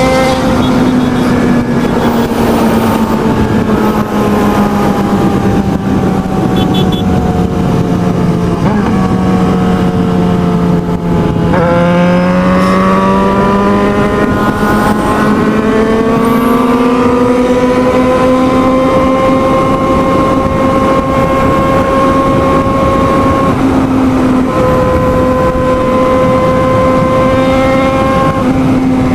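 Motorcycle engine running hard at high revs at speed. Its pitch sinks slowly for about ten seconds, then climbs back up after a brief break and holds steady, with a couple of short breaks later on.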